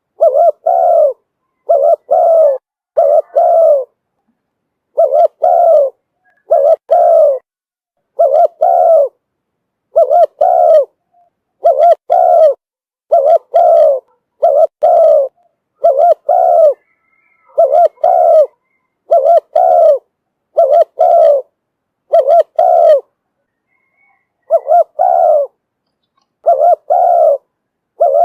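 Spotted dove cooing over and over, a decoy bird's call used to lure wild doves: short coos coming mostly in pairs every second or two, with a longer pause about two-thirds of the way through.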